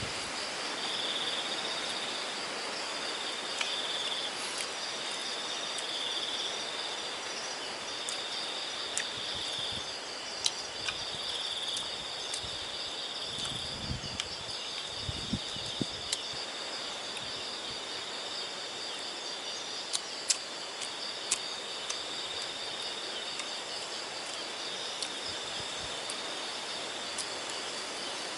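Insect chorus: a steady high-pitched trill with a second insect calling just below it in repeated pulses. A few sharp clicks are scattered through.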